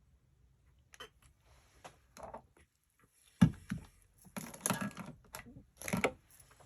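Clicks and knocks of small objects being handled on a craft table, with one louder knock about three and a half seconds in and busier clicking after it.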